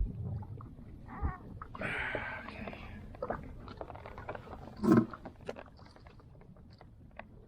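Scattered knocks and rustles of gear and catch being handled aboard a small inflatable fishing boat, with a rustling patch about two seconds in and one loud thump about five seconds in.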